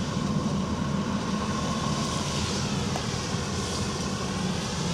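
Engine of a Type 94 amphibious mine-laying vehicle running steadily under way: a continuous low drone with a rushing noise over it.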